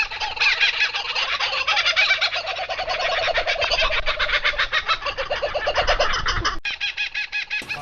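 Cockatoo calling in a fast run of harsh, rattling pulses, about ten a second, breaking off briefly near the end.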